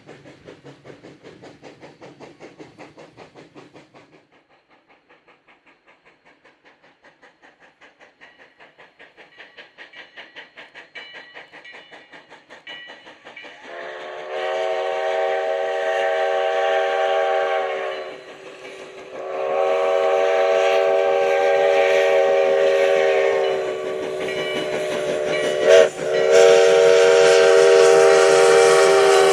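Sierra No. 3, a 4-6-0 steam locomotive, working with a steady rhythmic exhaust chuff that grows louder as it approaches. Its chime steam whistle then blows long, long, short, long, the grade-crossing signal, with the last blast still sounding at the end.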